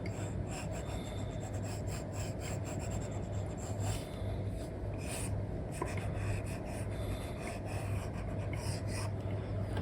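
Apple Pencil 2 with an Elecom nib scratching across a paper-like screen film on an iPad, in many quick short strokes and taps, over a steady low hum.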